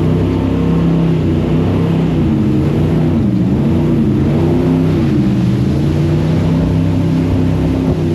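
Jet boat engine running hard under a steady rushing noise, its pitch dipping and coming back up twice in the middle as the throttle eases and opens again.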